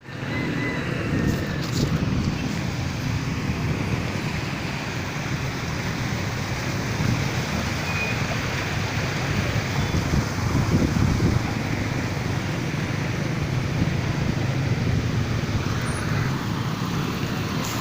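Steady road traffic noise: vehicle engines and tyres making a continuous low rumble.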